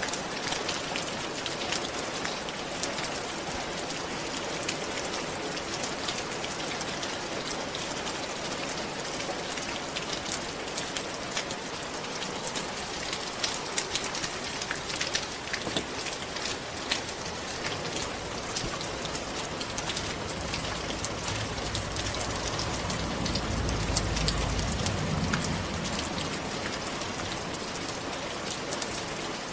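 Rain falling on a roof: a steady hiss with many separate drops ticking on the surface. About two-thirds of the way in, a low rumble swells and then fades.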